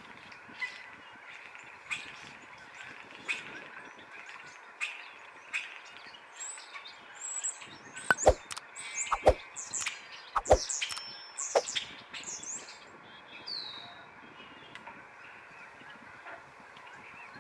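Birds calling, with short high chirps throughout. About halfway through come several sharp knocks, the loudest sounds.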